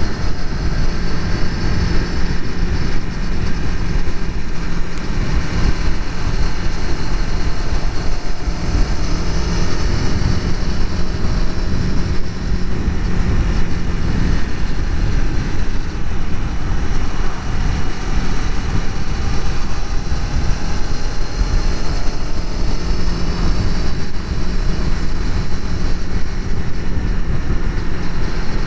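Aprilia Tuono V4 motorcycle engine running through its stock factory exhaust while riding, its pitch drifting up and down gently as the revs change.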